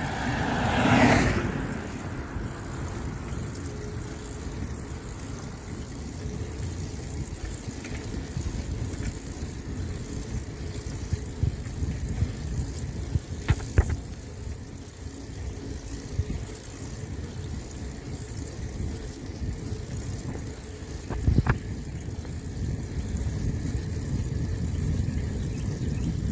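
Road traffic: a car passes close by, swelling to its loudest about a second in, over a steady low rumble. Two sharp knocks come later.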